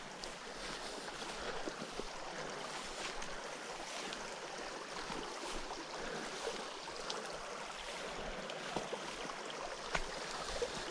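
Water of a small creek running steadily, an even rush of flowing water, with a few faint clicks over it.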